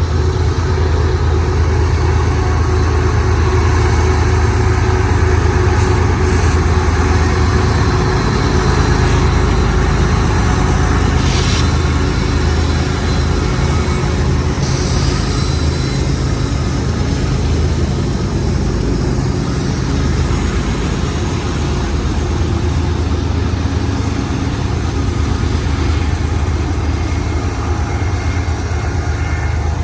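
Union Pacific freight train passing: a steady low diesel-locomotive drone with the continuous rumble of freight cars on the rails.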